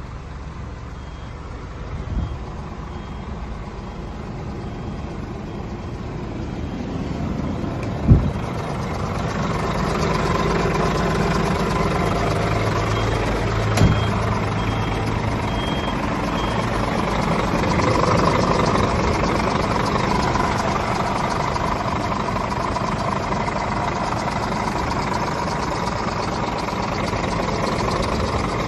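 Scania R450 truck's 13-litre straight-six diesel running, a steady engine hum that gets louder about a third of the way in and stays up. A faint high beep repeats in two stretches, and there are two sharp knocks, one near the middle and one a little before it.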